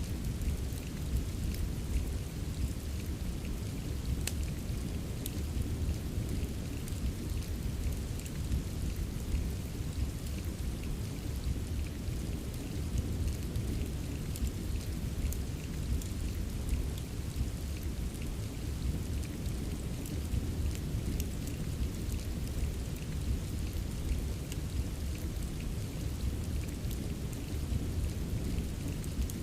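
Steady rain with a deep, low rumble, mixed with a fireplace whose scattered sharp crackles and pops stand out against the rain.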